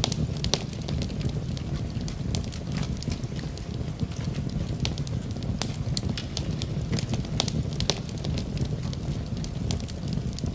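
Wood fire crackling in a fireplace, with frequent irregular sharp pops and snaps over a low, steady rumble. Gentle rain runs underneath as a soft, even hiss.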